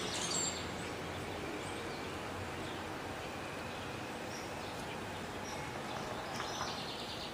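Steady outdoor background noise, with a short high chirp just after the start and a few faint high chirps around the middle.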